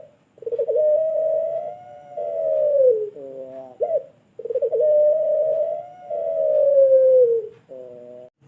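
Puter pelung, a domestic Barbary dove bred for long coos, cooing twice. Each coo opens with a quick stutter, is drawn out for about three seconds, and falls in pitch at the end, then is followed by a short lower note.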